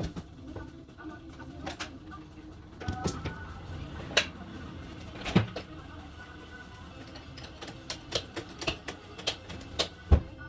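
Irregular sharp knocks and clicks, like hand work on metal parts: a few scattered strikes at first, then coming about two a second in the last few seconds.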